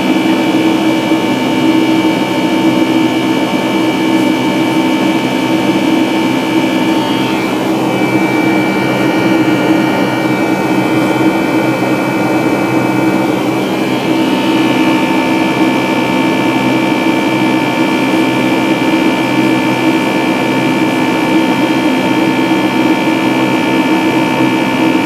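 Airliner jet engines heard from inside the cabin: a steady, loud drone with a constant high whine on top. About a third of the way in, the whine's pitch shifts slightly, and it returns to its earlier tone about seven seconds later.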